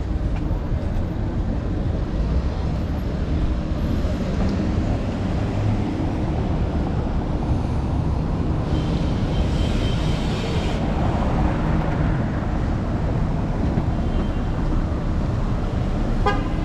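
Steady low rumble of city street traffic and an electric scooter riding over pavement, heard from the scooter's handlebars. A hiss lasting about two seconds comes a little past halfway, and a short run of clicks near the end.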